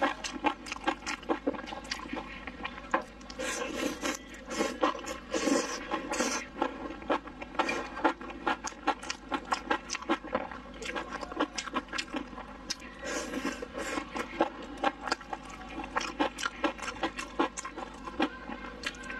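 Close-miked wet chewing and lip-smacking of chili-sauce-coated fried skewers: a dense, fast run of moist smacks and clicks, with a few longer wet noises.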